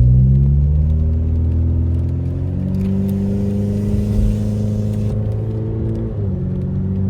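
Car engine accelerating as the car pulls away and gathers speed, its note stepping to a new pitch about a third of the way in and again near the end. A hiss rises over it for a couple of seconds in the middle.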